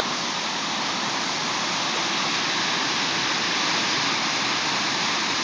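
Creek in flood, its fast white-water current rushing steadily.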